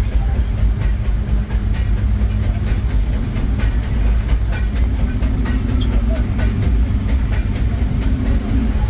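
Narrow-gauge railroad passenger coach rolling along the track behind a steam locomotive: a steady low rumble with many scattered wheel clicks.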